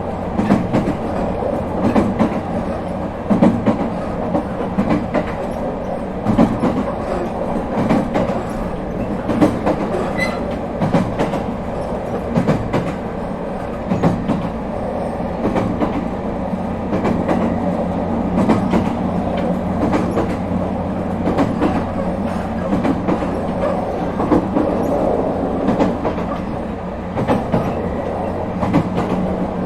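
Running noise inside an ET127 series electric multiple unit (Toyo IGBT-VVVF after its equipment renewal) at steady speed between stations. A steady low hum lies under frequent clicks of the wheels passing over rail joints.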